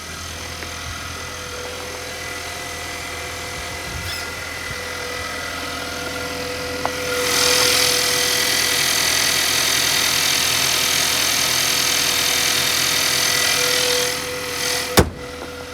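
Ford Maverick idling after a cold start, a steady hum with fixed tones. About seven seconds in, a loud even rushing noise starts, lasts about seven seconds and then stops. A single sharp knock follows near the end.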